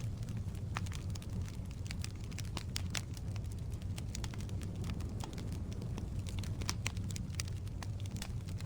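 Wood fire burning in a fireplace: frequent irregular pops and crackles from the burning logs over a steady low rumble of flame.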